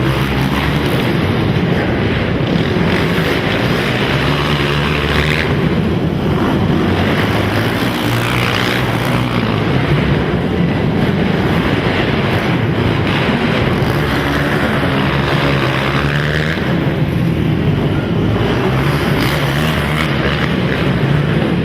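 Racing ATV (quad) engines running together, several engine notes overlapping and revving up and down continuously.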